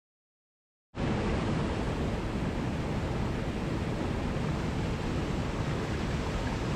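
Silence, then about a second in a waterfall's steady rush of falling water starts abruptly and runs on evenly, heaviest in its deep low rumble.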